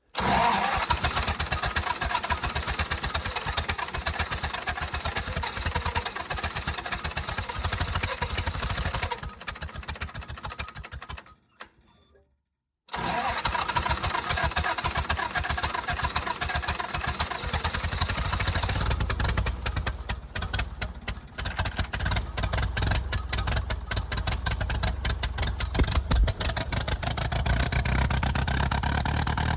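Lincoln SA-200 welder's engine being cranked in extreme cold, sputtering as it tries to fire. The sound cuts out about eleven seconds in. Then cranking resumes, the engine catches and runs unevenly, settling toward a steady idle near the end.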